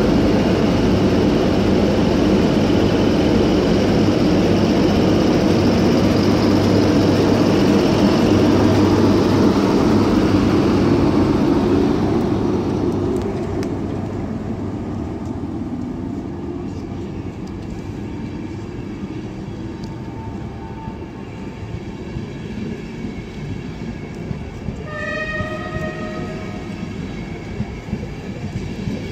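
A train passing through the station, loud for the first dozen seconds and then fading away, followed by a short horn blast near the end.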